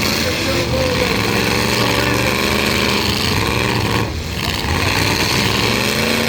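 Several demolition derby truck engines running and revving at once, a loud continuous din with pitches rising and falling, easing briefly about four seconds in.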